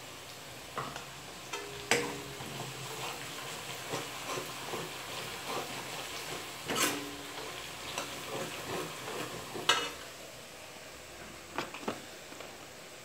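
Sliced onions frying in oil in a metal pan, a steady sizzle, while ground spice is tipped in and stirred with a metal spoon. The spoon clinks and knocks sharply against the pan several times, loudest about 2 s and 7 s in.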